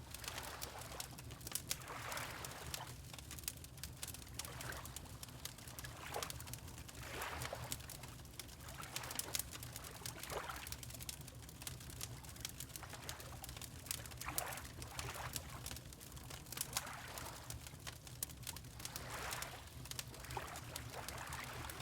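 Fireplace crackling with many small sharp pops over a low steady rumble, while water laps in soft swells about every two seconds.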